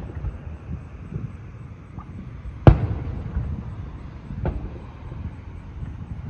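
Aerial firework shells bursting: one loud, sharp bang nearly three seconds in and a softer one about a second and a half later, over a steady low rumble.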